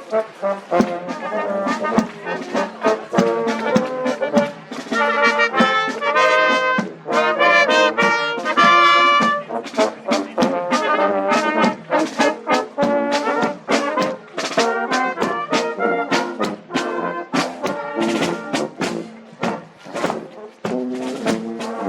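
Brass band playing a march, trumpets and trombones over a steady drum beat.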